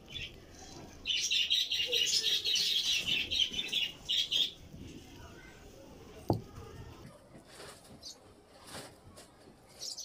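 Birds twittering in a quick, high chatter for about three seconds. Then a single sharp knock about six seconds in as a steel tumbler is pressed down onto rolled dough to cut out a round.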